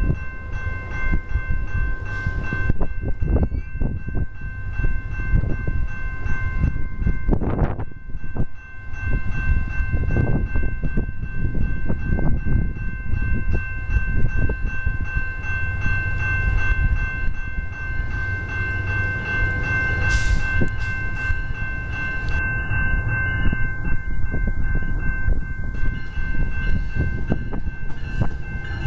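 A commuter train running past close by: a continuous heavy rumble with frequent clicks and knocks from the wheels, over a steady high-pitched whine.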